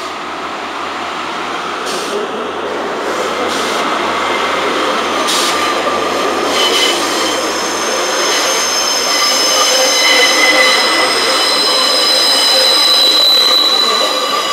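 A pair of Class 144 Pacer diesel multiple units moving along the platform, the rumble growing steadily louder. High-pitched wheel squeal builds from about halfway through and is strongest near the end.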